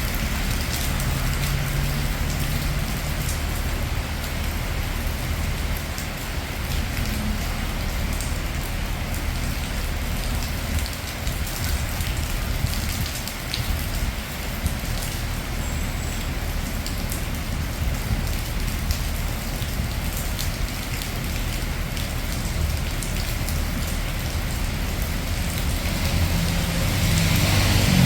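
Steady rain falling on city streets, an even hiss of drops with a low traffic rumble underneath. Near the end a vehicle draws closer and the rumble grows louder.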